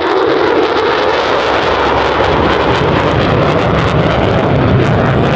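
F-16 Fighting Falcon jet engine, a loud steady roar. Near the start a lower tone drops slightly in pitch.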